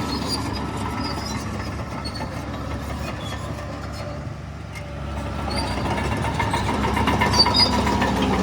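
Heavy diesel engine of earthmoving machinery running under load. It eases off about halfway through, then builds up again.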